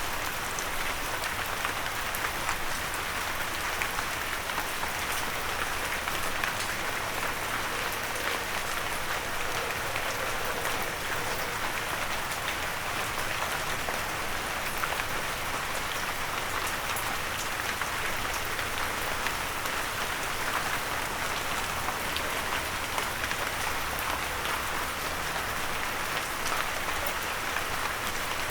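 Steady rain falling and pattering on a windowsill, with many small drop ticks in an even hiss.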